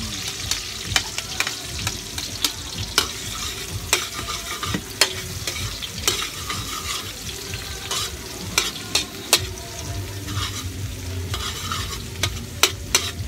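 Sliced onions and minced garlic sizzling in hot oil in a large metal wok, with a metal spatula clicking and scraping against the pan about once or twice a second as they are stirred.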